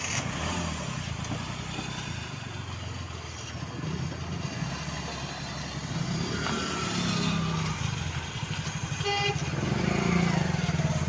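Hyundai Xcent CRDi diesel engine running just after starting, a steady rumble that grows slightly louder, with a short horn-like beep about nine seconds in.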